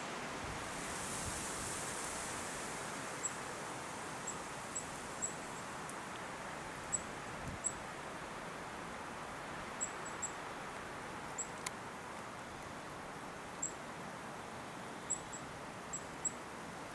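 Strong wind rustling through leaves in a steady wash of noise, with short, very high-pitched peeps scattered irregularly throughout.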